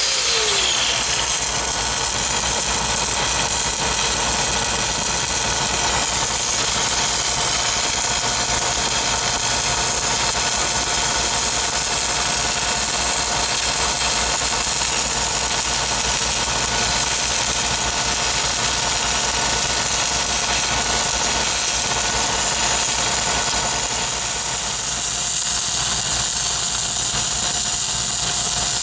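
An engine running steadily at an even speed, with a steady hiss over it. In the first second a power tool winds down.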